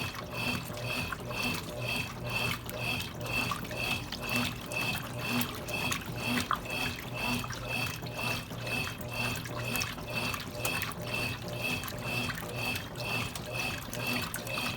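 Consul Cargo 8 kg washing machine running with water in the tub, a regular pulsing sound about twice a second over a steady low hum.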